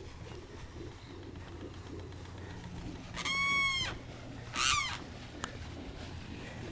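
A bird calling twice: a held note about three seconds in, then a shorter note that falls in pitch a second later.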